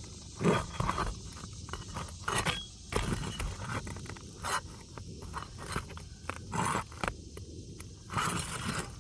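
Back of a roofing hatchet scraping and prying under roof shingles, breaking the sealant strips to lift them: a string of irregular scrapes and knocks.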